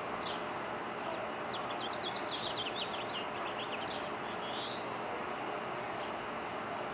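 A small bird chirping over steady background noise: a quick run of short high chirps about two seconds in, then a brief rising call.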